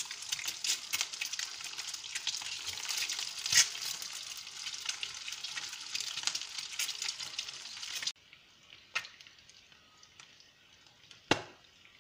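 Halved hard-boiled eggs frying yolk-side down in hot oil and butter, sizzling with dense crackling pops as more halves are laid in. The sizzle cuts off suddenly about eight seconds in, leaving a much quieter stretch with two sharp clicks.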